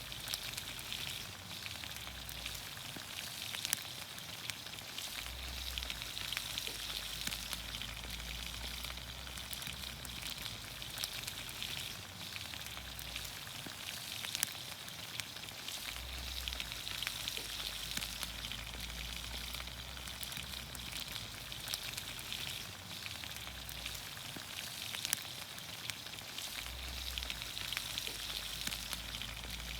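Vegetables frying in olive oil over a campfire: a steady sizzling hiss with scattered sharp pops and crackles.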